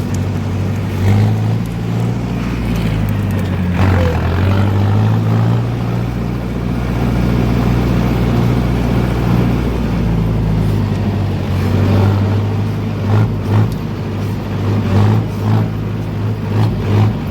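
Heavy diesel engine running steadily under load, with a steady low drone and several short surges in loudness near the end.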